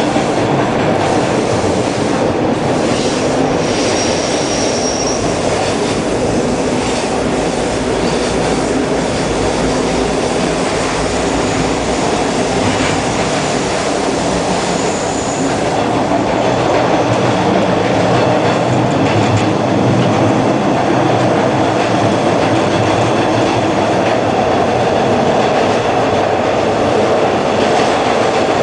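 Hawker Siddeley H4 subway car running along the track, heard from inside the car: a steady loud rumble of wheels on rail with some clickety-clack. Thin high wheel squeals come in briefly about four seconds in and again around eleven to fifteen seconds, and the running noise grows a little louder past the middle.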